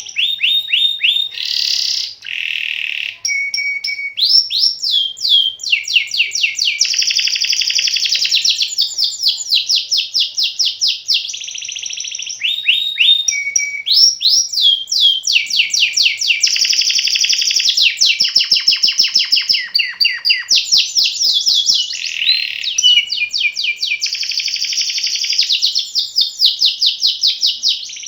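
Domestic canary singing a long, near-continuous rolling song: fast trills of repeated high, downward-sweeping notes, changing from one trill to the next with only brief breaks.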